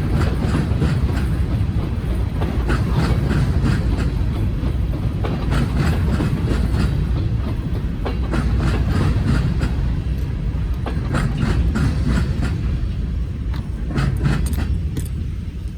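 Norfolk Southern freight train cars rolling past, with a steady heavy rumble and wheels clicking over the rail joints.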